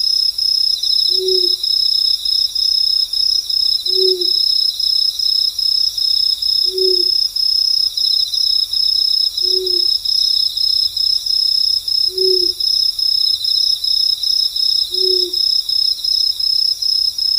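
Crickets chirping in a steady, high, rapid pulsing trill, with a second cricket trill coming and going just beneath it. An owl gives a short, low, slightly falling hoot at even intervals of about every two and three-quarter seconds, six times.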